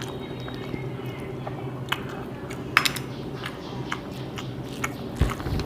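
People eating at a table: chewing and mouth sounds with a few sharp clinks of dishes, the loudest about three seconds in, and a dull thump near the end, over a steady low hum.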